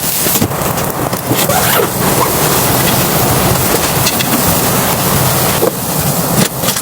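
Strong wind blowing hard and buffeting the microphone in a dense, steady rush of noise.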